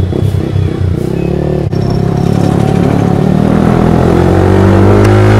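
Yamaha R15 V3's 155 cc single-cylinder engine pulling away and accelerating. The run has a brief break about one and a half seconds in, then grows steadily louder, with wind noise on the microphone building with speed.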